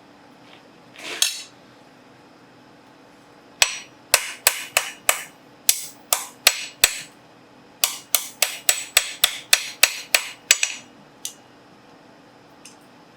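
A blacksmith's hammer striking steel in two quick runs of about ten ringing blows each, roughly three a second, with a short pause between and one last blow after. A brief scrape comes first, about a second in.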